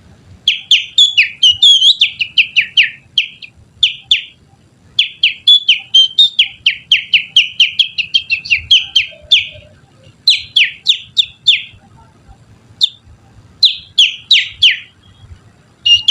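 Finger whistling that imitates the call of a Kutilang Sutra bulbul, used as a lure: quick runs of short, sharply falling chirps, several a second, in phrases broken by brief pauses.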